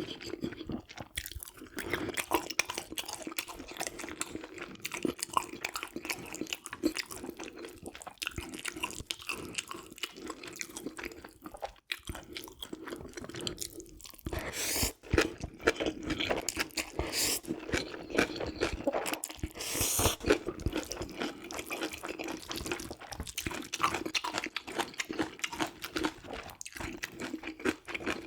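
Close-miked eating: a person crunching and chewing food, with wet mouth clicks, for the whole stretch. Two louder bites come about halfway and two-thirds of the way through.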